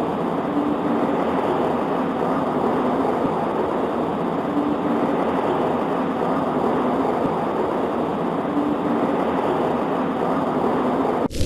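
Steady rain on a window pane, an even patter. Right at the very end it cuts abruptly to a louder, deep low rumble of thunder.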